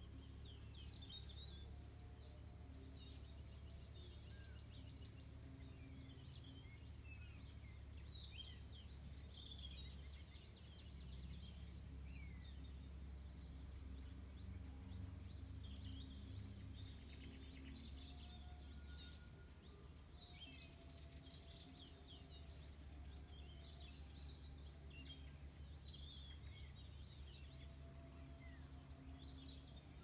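Small songbirds chirping and twittering, many short quick calls, over a faint steady low rumble.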